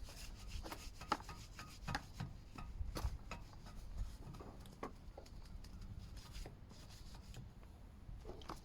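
Irregular scrubbing and rubbing strokes of a cleaning brush on a dirty car alloy wheel, with scattered light knocks.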